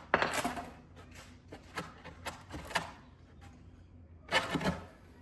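Wooden form boards being knocked and pried loose from set concrete: a string of knocks and scrapes, loudest right at the start and again a little past four seconds in.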